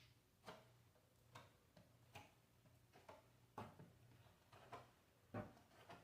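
Faint, sharp taps or clicks at an uneven pace of about one a second, the loudest near the end, over a faint steady low hum.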